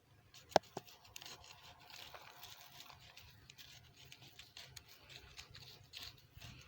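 Soil being scraped and stirred to mix in freshly applied manure: a run of small irregular scratching and crumbling sounds, with one sharp click about half a second in.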